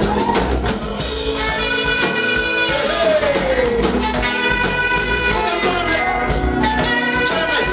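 Live gospel praise music: a praise team singing with instrumental accompaniment and a steady percussion beat.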